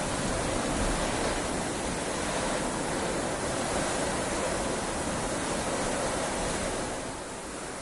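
Heavy rain falling, a steady hiss that eases slightly near the end.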